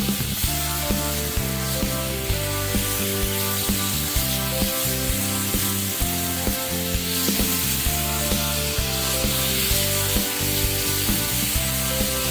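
Pear slices sizzling as they fry in butter and cane sugar in a nonstick pan, turned now and then by a silicone spatula, under background music.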